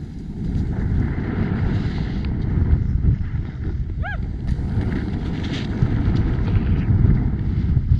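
Wind rushing over the camera microphone while snowboarding downhill, a dense low rumble that builds up about half a second in, with a brief high squeal about four seconds in.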